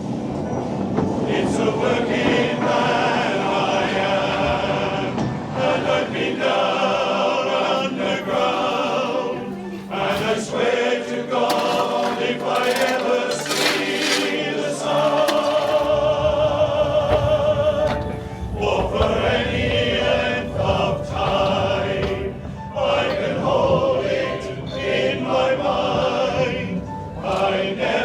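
A choir singing with vibrato, as a music soundtrack.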